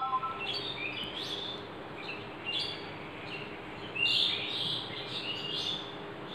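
Birds chirping: a series of short, high chirps with quick up-and-down slides in pitch, repeated every half second or so.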